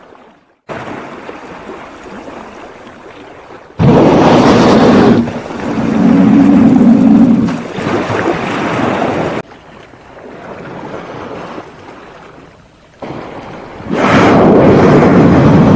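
Sea water and waves rushing, in abruptly cut segments, with loud whooshing surges a few seconds in, in the middle and near the end.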